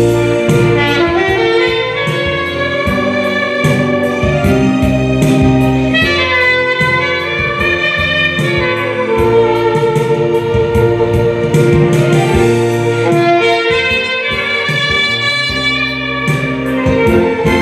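Saxophone playing a slow melody of long held notes over accompaniment with a steady drum beat.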